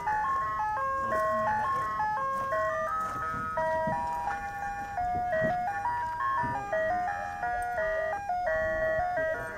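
Ice cream truck's chime tune playing over its loudspeaker: a simple melody of single notes stepping up and down, thin and tinny, over a faint low rumble.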